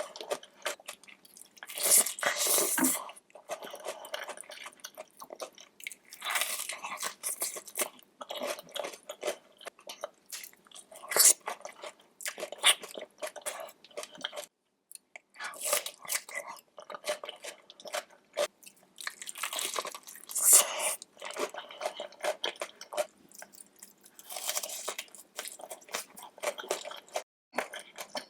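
Close-miked eating sounds of a seafood boil: wet chewing and crunching with many sharp clicks and bites, broken by a brief pause about halfway through.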